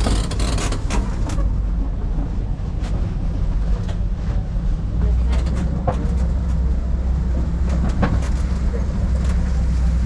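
Safari tour truck driving, heard from on board: a steady low engine and road rumble with scattered rattles and knocks from the vehicle.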